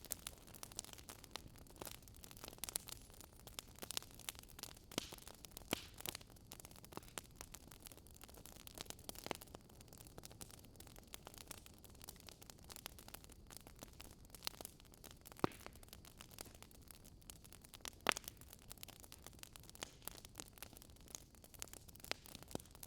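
Wood fire crackling softly, with irregular small pops and two sharper pops in the second half.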